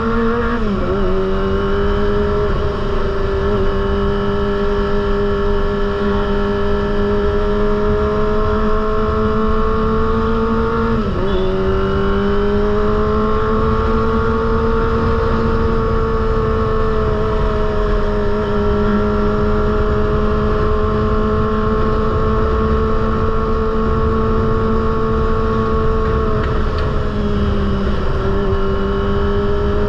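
Kawasaki ZX-25R's 249 cc inline-four engine running through a Proliner aftermarket exhaust, holding a high, steady pitch. The engine note dips briefly and climbs back three times: about a second in, about eleven seconds in, and near the end.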